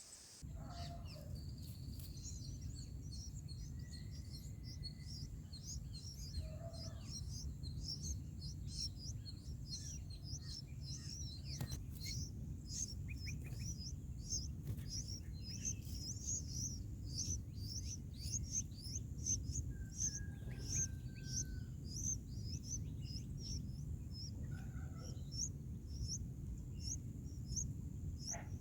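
Small birds chirping rapidly and repeatedly at a high pitch, with a few longer whistled notes, over a steady low rumble.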